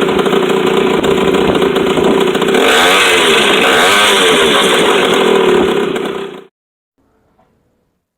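Small motorcycle engine running at high revs, its pitch swinging up and down twice around the middle, ending with a short fade about six and a half seconds in.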